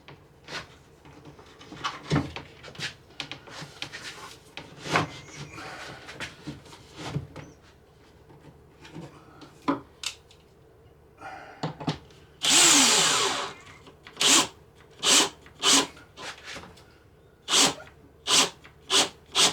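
Scattered knocks and bumps of a wooden cabinet being handled against the wall, then a cordless drill driving a screw in one run of about a second, its pitch falling, followed by about seven short bursts of the drill as its battery dies and the screw stays partway in.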